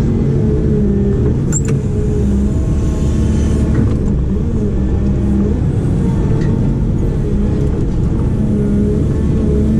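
Heavy construction machine's diesel engine running steadily under load, its pitch shifting slightly as it works, with a sharp click about a second and a half in.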